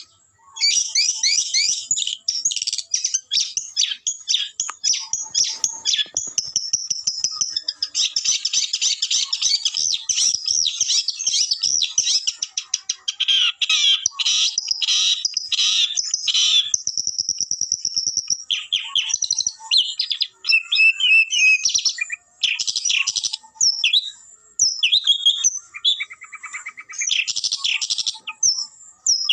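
Long-tailed shrike (cendet) singing energetically: a fast, varied run of high chirps, trills and whistles packed with phrases mimicked from other birds, with a few brief pauses in the second half.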